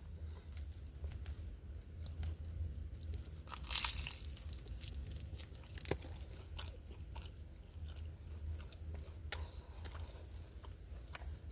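Person biting into a fried BBQ chicken egg roll and chewing it close to the microphone: one louder crunchy bite about four seconds in, then small crunches and mouth clicks. A steady low rumble runs underneath.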